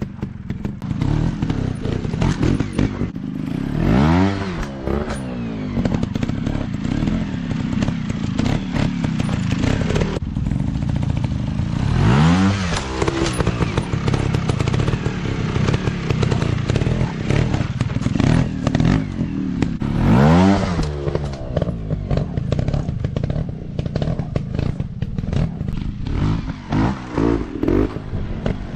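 Dirt bike engines running and revving, with the pitch climbing hard about four seconds in, again about twelve seconds in and again about twenty seconds in, along with clattering and scraping.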